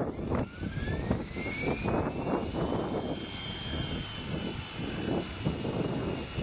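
E-sky Honey Bee FP electric RC helicopter whining, its pitch rising over the first three seconds as the rotor speeds up, then holding steady. Heavy wind buffets the microphone throughout.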